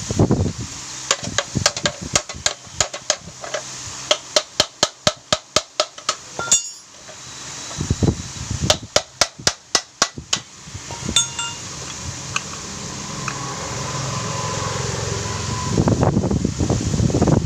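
Metal tools working on a motorcycle engine's casing as it is dismantled. Quick runs of sharp metal taps, about five a second, come twice, with heavier clunks of parts being handled near the end.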